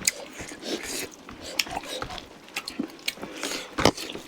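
Close-up mouth sounds of people eating chicken curry: chewing and lip smacks, heard as scattered short clicks, with a louder smack a little before the end.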